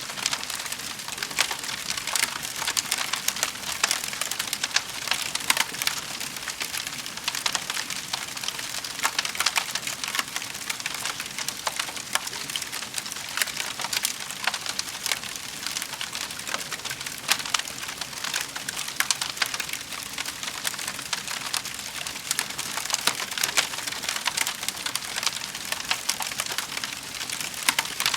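Wood fire crackling in a fireplace: a steady hiss with many quick, irregular pops and snaps throughout.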